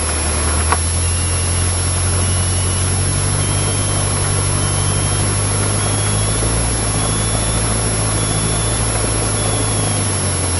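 Cessna 152's four-cylinder Lycoming O-235 engine running steadily at low power while the plane taxis. It is a constant drone heard from inside the cockpit.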